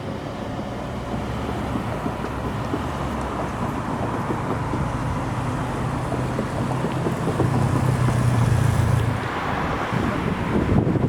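Electric suburban train passing over a level crossing: a steady low motor hum that grows louder, then breaks off about nine seconds in, followed by wind buffeting the microphone.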